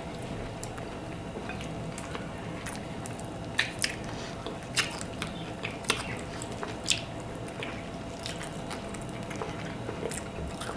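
Close-up wet chewing and lip smacking of people eating buttered garlic shrimp and lobster, with a handful of short sharp smacks or clicks scattered through the middle and a faint steady hum underneath.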